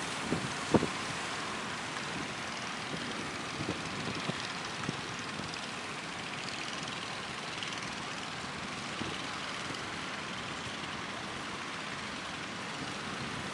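Steady rushing roar of strong wind and breaking waves, with a few short knocks, the sharpest about a second in.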